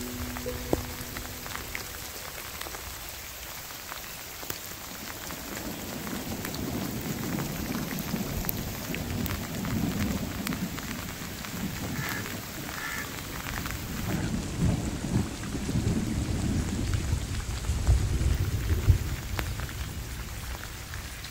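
Steady rain falling, with a low rolling rumble of thunder that swells from about six seconds in and is strongest near the end.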